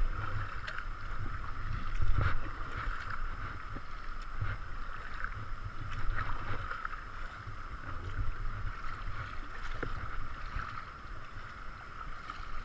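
River water rushing and splashing around a kayak running a narrow stretch of the river, with occasional sharper splashes. A pulsing low rumble of wind buffets the camera microphone.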